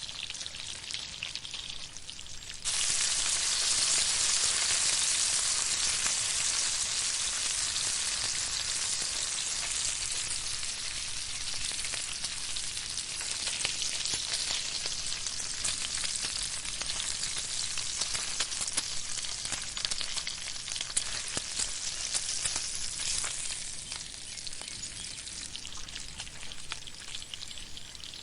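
Food sizzling in a hot pan over a campfire, with a steady hiss full of small pops and crackles. It gets suddenly louder about three seconds in and eases off a little near the end.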